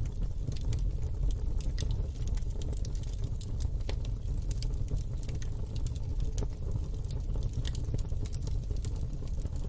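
Wood fire burning in a fire pit: steady crackling with frequent sharp pops over a low rumble of flames.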